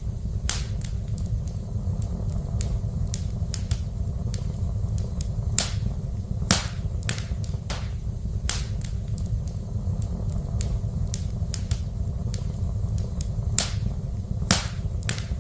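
Fire burning in a fireplace: a steady low rumble with irregular crackles and a few louder sharp pops scattered throughout.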